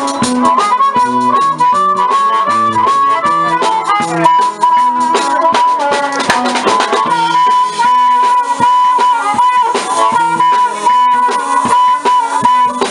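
Blues harmonica playing a lead line over guitar accompaniment: bent, wavering notes around the middle, then one long held note for most of the second half.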